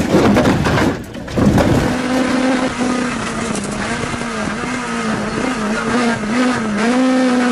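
Loud, harsh noisy bursts for about two seconds, then a rally car's engine running hard, its pitch wavering up and down as the revs change.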